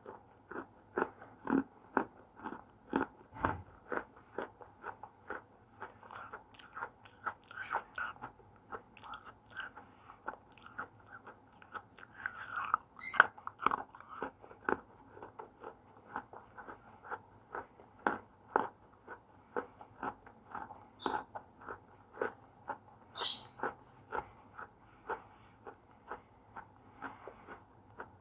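Slate pencils being bitten and chewed close to the microphone: a steady run of hard, sharp crunches, about two a second, with a few short high squeaks in between.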